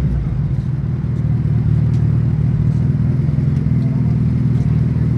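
Suzuki Hayabusa's inline-four engine running steadily at low revs through its exhaust, its pitch dropping at the very start as a rev falls away, then holding a steady low note.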